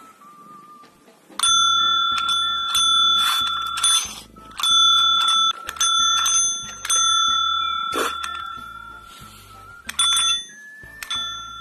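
A small metal bell, the kind used as a pet's call bell, struck again and again, each strike ringing on for a second or more before the next. There are about half a dozen strikes, starting a little over a second in. Background music with a steady beat plays underneath.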